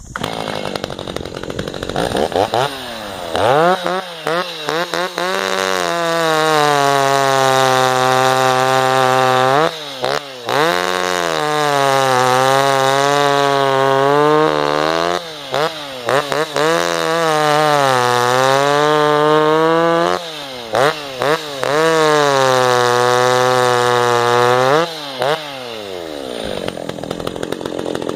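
Stihl MS290 two-stroke chainsaw with a ported muffler, freshly rebuilt, running. It idles briefly, is blipped a few times, then is held at high revs for several stretches of a few seconds each with quick drops between, and settles back to idle near the end.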